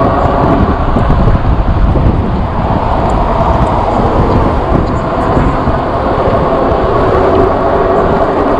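Steady rush of wind buffeting the microphone and road noise while riding an e-bike, with motor-vehicle traffic in the mix.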